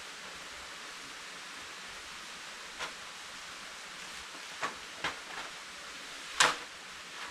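Four sharp knocks over a steady hiss, the last, about six seconds in, much louder than the others.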